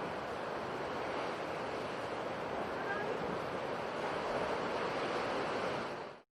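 Sea surf washing continuously in a steady rush of noise, cutting off suddenly near the end.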